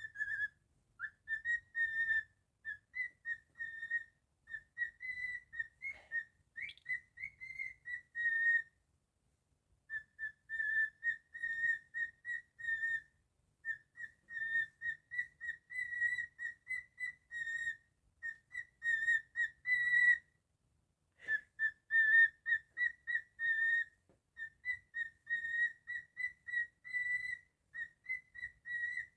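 Cockatiel whistling its song: long runs of short, clear whistled notes at nearly one pitch, with a brief higher rising note a few seconds in and short breaks between phrases.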